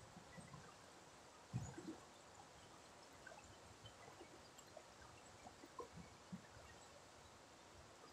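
Faint river water trickling and gurgling, with scattered small drips and one brief louder bump about a second and a half in.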